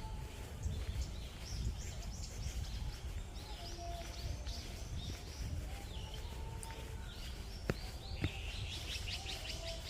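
Several birds chirping and calling with many short, quick notes, over a low outdoor rumble. Two sharp clicks sound close together near the end.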